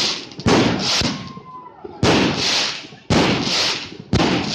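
Fireworks going off in quick succession: four sharp bangs about a second apart, each followed by a crackling hiss that fades. A faint whistle sounds about a second in.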